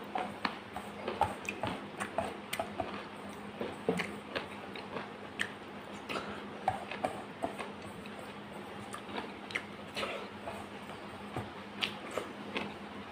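Close-up eating: a person chewing mouthfuls of rice and dal eaten by hand, with many short wet clicks and smacks of the mouth and fingers in the food, irregular throughout. A steady low hum runs underneath.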